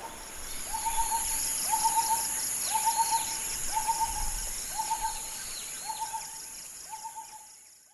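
A bird's hollow, hoot-like note repeated about once a second, seven times, over a steady high-pitched insect drone and fainter descending whistled calls; the whole ambience fades toward the end.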